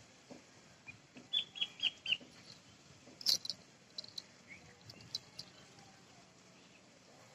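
A small bird chirping: a quick run of about five short high chirps about a second and a half in, then a sharper, higher call, and a few scattered chirps after.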